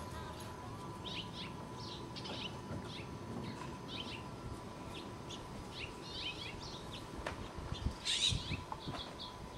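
Small birds chirping faintly: short high calls scattered throughout, with a denser run of chirps about eight seconds in, over a low rumble and a faint steady hum.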